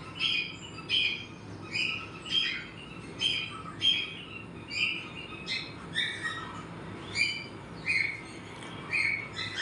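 Cockatiel chirping: a steady run of short, high chirps, about two a second.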